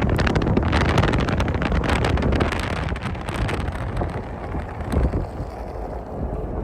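Car driving on a snowy, icy road: road noise with a dense crackle, and wind on the microphone.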